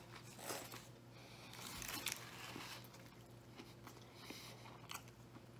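Faint biting and chewing of a Subway veggie sub: soft, moist mouth sounds with small clicks, over a low steady hum.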